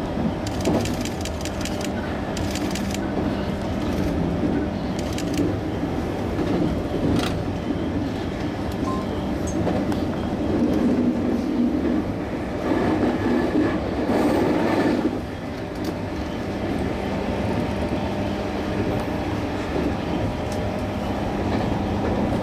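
Electric train running on track: a steady rumble of wheels on rail with a constant hum from the running gear. A quick run of wheel clicks over rail joints or points comes about a second in, and a louder rumble about two-thirds through drops away suddenly.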